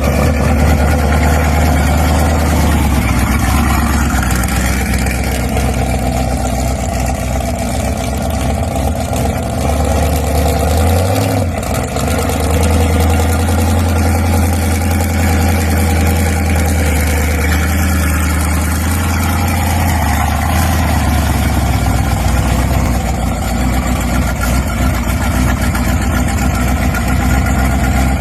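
A large car engine idling steadily, with a brief blip of the throttle about eleven seconds in.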